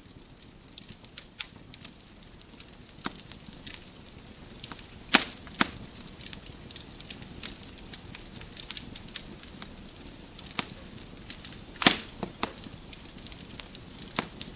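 Wood fire crackling in a fireplace: a soft steady hiss with frequent sharp snaps and pops, the loudest a few about five seconds in and again near twelve seconds.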